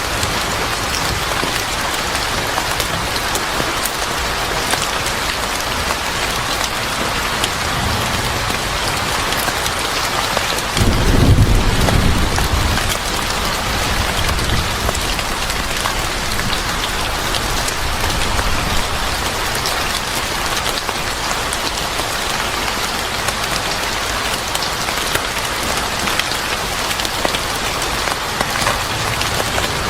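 Steady heavy rain falling, with a low rumble of thunder that starts suddenly about eleven seconds in and fades over a few seconds.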